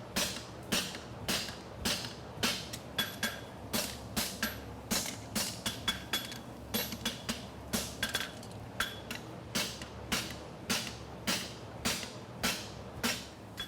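Forging hammer striking a steel bar on an anvil at a steady rhythm of about two blows a second, each with a short metallic ring, as material is upset into the toe of a draft bar shoe. A steady cooling-fan hum runs beneath.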